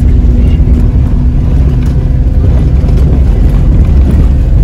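A 4x4's engine running as it climbs a steep, broken mountain road, with heavy low rumble; a steady engine hum in it fades out about halfway through.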